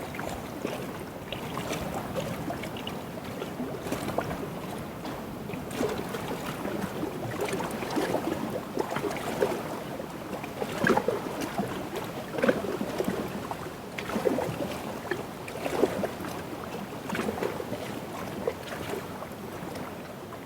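Small lake waves lapping and splashing irregularly against the shore, with some wind on the microphone.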